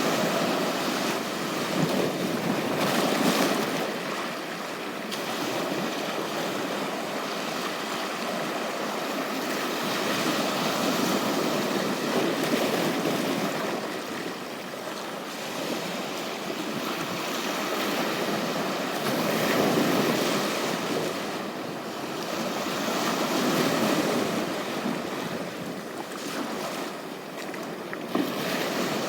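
Sea surf washing onto a beach: a steady hiss of waves that swells and eases every few seconds.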